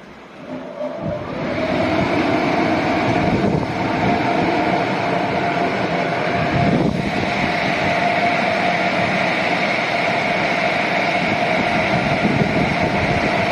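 Automatic car wash machine running, a steady whirring hum with rushing noise that builds up over the first second or two.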